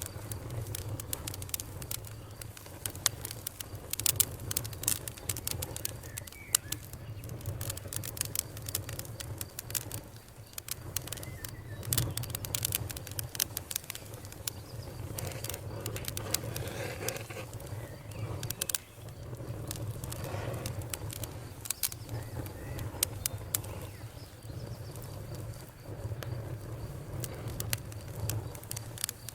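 Campfire crackling: irregular sharp snaps and pops, several a second, over a steady low rumble.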